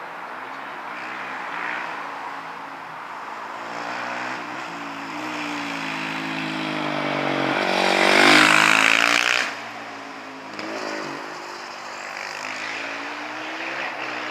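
Racing motorcycle on a hillclimb run, engine revving hard and rising in pitch through gear changes. It grows louder to a peak as it passes close about eight to nine seconds in, then drops away suddenly, leaving a quieter engine sound.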